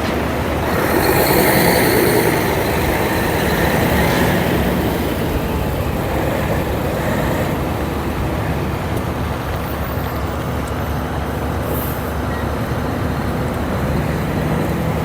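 Heavy truck engine running steadily, with a hiss of air about a second in and a shorter one about four seconds in.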